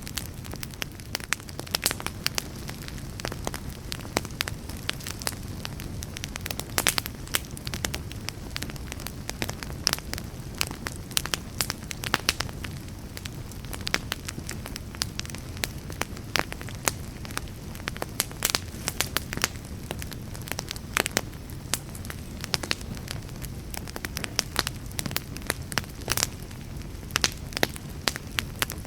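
Wood fire burning, with a steady low rumble of flame and frequent irregular sharp crackles and pops from the burning wood.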